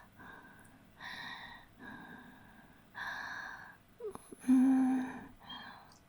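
A woman's heavy breathing: breathy exhalations about once a second, then a short voiced moan about four and a half seconds in, the loudest sound here.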